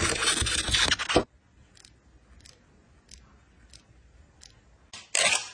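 A sneaker being handled and taken apart: loud scraping and rustling of the shoe's material for about a second. Then come a few faint ticks, and about five seconds in the scraping starts again.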